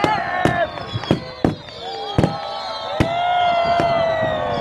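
Fireworks display: sharp bangs of exploding shells go off about every half second to a second, about seven in all. Long, slowly falling whistles run between and under them.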